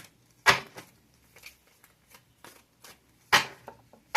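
Tarot cards being handled and shuffled by hand: a run of light card ticks, with two louder card slaps about half a second in and near the end.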